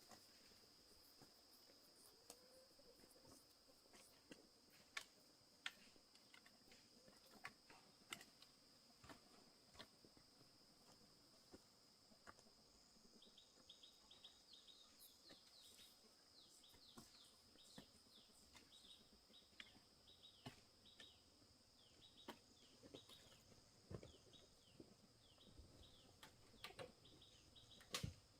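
Faint outdoor night ambience: a steady high-pitched insect drone, with a run of quick, repeated chirps joining about halfway through and scattered small clicks and ticks, the loudest near the end.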